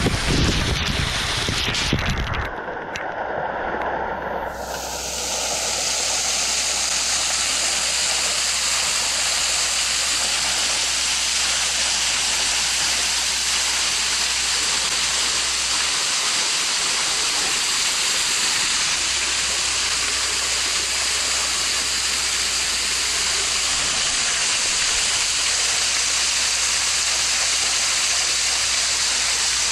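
A small waterfall pouring onto a GoPro Hero8, picked up by the camera's own microphone as a steady, loud rush of water. In the first couple of seconds there is heavy low rumbling, then the sound is briefly muffled before the full rush settles in.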